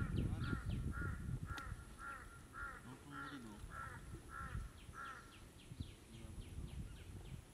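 A bird calling over and over, about two calls a second for the first five seconds, with a second bird's quick falling chirps near the end. Underneath, water sloshes as a cast net is worked into a plastic tub in knee-deep water, loudest at the start.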